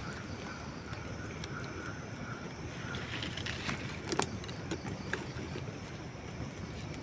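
Dry wood burning in a campfire: a steady low rush with a few scattered crackles and pops, the sharpest about four seconds in.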